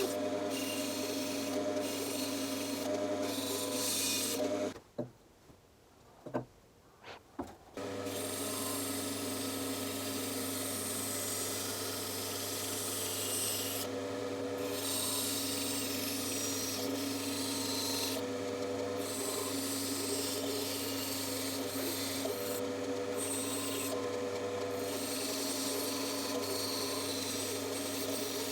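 Bandsaw running with a steady hum while its blade cuts through wood with a rasping hiss. About five seconds in it breaks off for a few seconds, with only a couple of clicks, then resumes.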